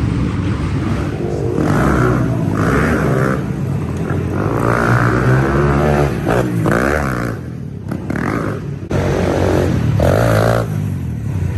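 Small single-cylinder four-stroke pit bike engines revving up and down as they are ridden round the track, the pitch rising and falling again and again. The sound drops off briefly and then comes back abruptly about nine seconds in.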